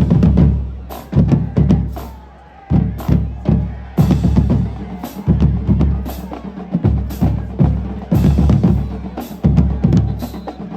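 A drumline playing a loud cadence: heavy bass drum hits with snare and cymbal crashes in a repeating rhythm.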